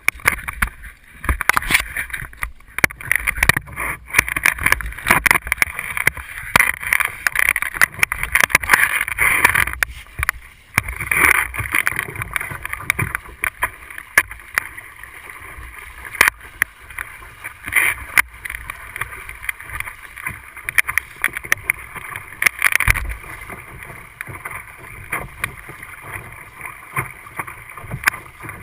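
Water splashing and slapping irregularly against a Sunfish sailboat's hull as it moves under way, with wind rumbling on the microphone. It is busiest in the first ten seconds or so.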